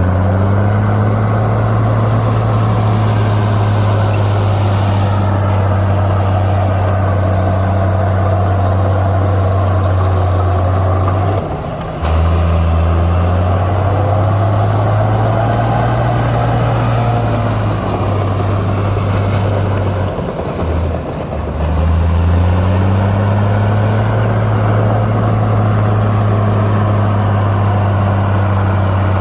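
Heavy diesel engine of an earthmoving machine running hard under load, its pitch rising and falling as the throttle changes. The engine note dips sharply about twelve seconds in and again around twenty to twenty-two seconds, then climbs back up.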